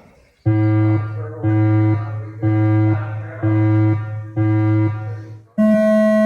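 Electronic race-timing buzzer tones over the PA: five low beeps about a second long, one a second, then a higher, longer tone near the end, signalling the finish of the heat.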